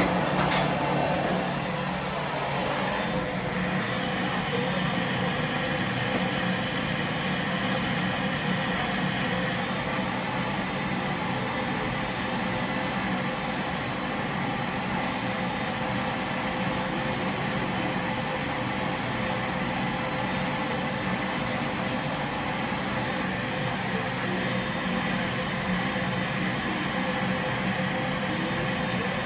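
Vacuum cleaner running steadily: an even motor hum and whine over a constant rush of air, with a single click just after the start.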